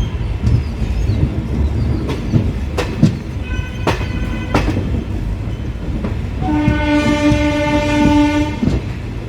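Passenger train hauled by a diesel locomotive, running along the line, its wheels clicking over the rail joints under a steady rumble. About two-thirds of the way through, the locomotive's horn sounds one steady note for about two seconds. It is preceded midway by a shorter, fainter, higher tone.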